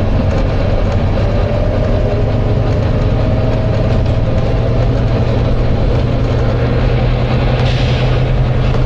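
Volvo B9TL double-decker bus's diesel engine running steadily, with a whine that rises slowly in pitch. A short burst of air hiss comes near the end.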